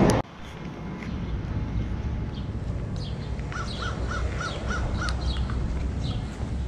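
Birds calling: one bird gives a quick run of five harsh, evenly spaced calls over about a second and a half in the middle, while smaller birds chirp briefly and high on and off, over a steady low rumble.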